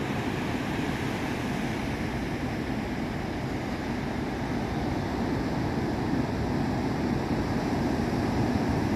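Ocean surf washing steadily onto the beach, with wind rumbling on the microphone; it swells a little louder about six seconds in.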